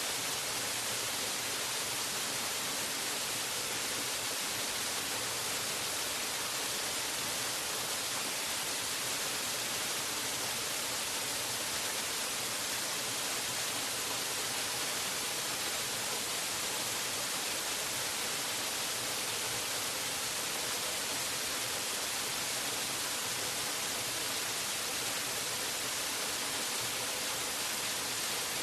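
Waterfall rushing: a steady, unbroken hiss of falling water, strongest in the high range and unchanging throughout.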